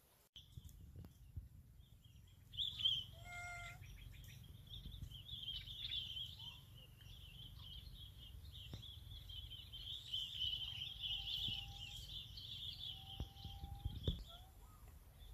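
Birds chirping and calling: a continuous high, fluttering chirring starts about two and a half seconds in and runs until near the end, with two short whistled notes late on. A low rumble runs underneath.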